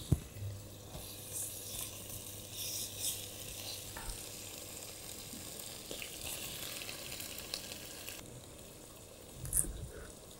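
Mantis shrimp sizzling in hot olive oil in a copper pan, a steady soft frying crackle. A few light knocks come near the end.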